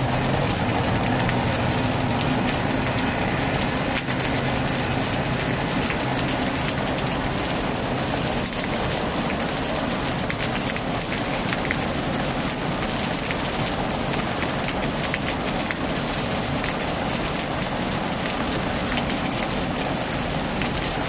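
Heavy rain falling steadily on a tin roof, a dense even patter of drops. A low motor hum sounds under it for the first few seconds and then fades out.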